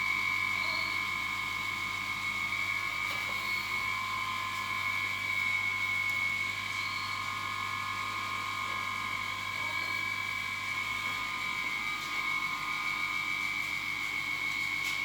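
Toyota 1HZ 4.2-litre inline-six diesel engine running steadily, with a steady high whine over its low hum.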